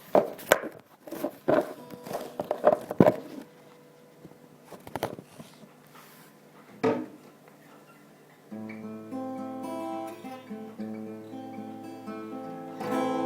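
Acoustic guitar playing a song's introduction: a run of sharp strums in the first few seconds, a few sparse strokes, then steady held chords from about eight and a half seconds in that change every second or so.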